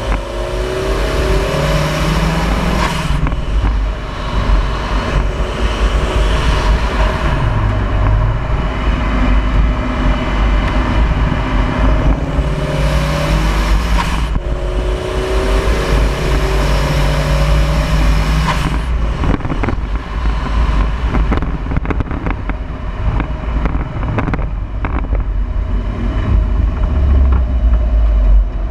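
Wind rumbling over a grille-mounted camera's microphone, with a turbocharged Mazda Miata's four-cylinder engine note rising and falling in pitch as the car accelerates and shifts. The high rushing hiss drops away after about twenty seconds as the car slows.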